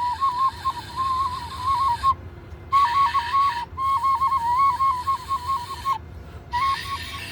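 Flute playing a quick, ornamented melody in three short phrases, with brief breath pauses about two seconds and six seconds in.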